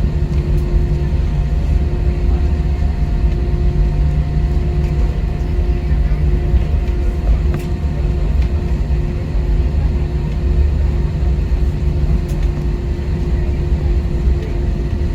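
Jet airliner cabin noise: a steady, loud low rumble from the engines, with a steady droning tone on top.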